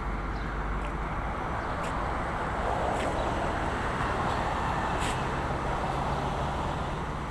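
Steady vehicle noise, an even rushing hum with a few faint clicks.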